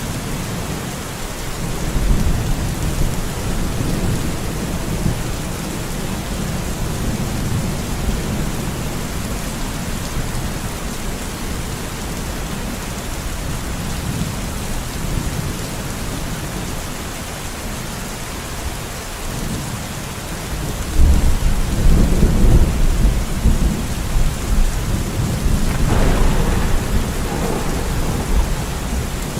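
Steady rain falling in a forest, with thunder rumbling low underneath. The thunder swells about two-thirds of the way in, with a sharper crack a few seconds later.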